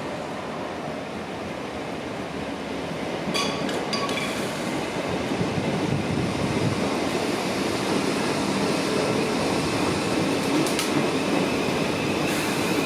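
Electric passenger train running through the station, its rumble growing steadily louder, with a few brief high metallic clinks or squeaks about three to four seconds in.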